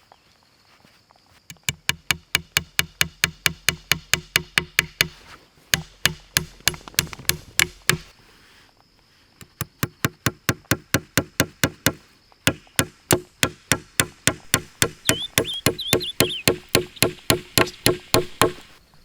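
Rapid, evenly spaced knocks, about three to four a second, in three runs broken by two short pauses.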